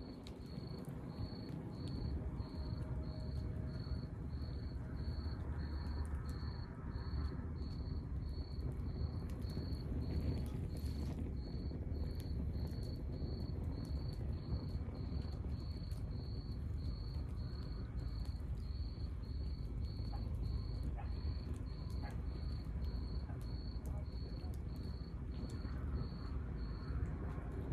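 A cricket chirping steadily, about one and a half high chirps a second, with a short pause near the end. Underneath runs the low rumble and faint crackle of a burning log fire.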